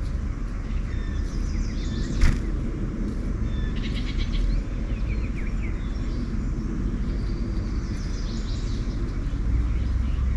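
Small songbirds chirping and calling repeatedly in short high-pitched phrases over a steady low rumble, with one sharp click about two seconds in.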